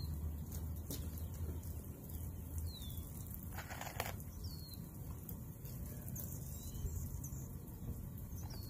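A bird gives short downward chirps several times. About three and a half seconds in there is a brief rattle of screws being scooped from a plastic tub.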